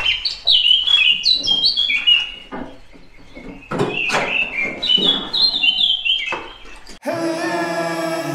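A songbird singing two quick phrases of high chirping notes, each about two seconds long. About seven seconds in, music cuts in abruptly.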